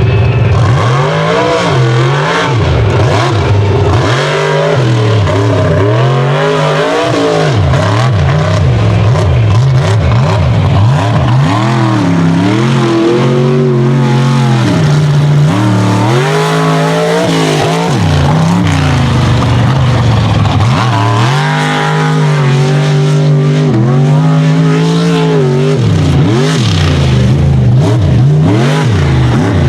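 Unlimited-class mega truck engine under hard throttle on a race run, revving up and dropping back over and over, its pitch climbing and falling with each throttle stab.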